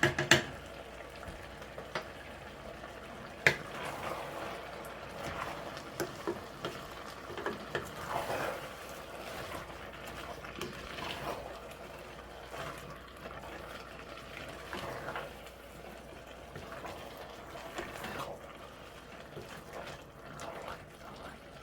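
Pot of chicken, vegetables and tomatoes cooking on the stove, with a low bubbling and sizzling. A few sharp utensil knocks come at the start and again about three and a half seconds in.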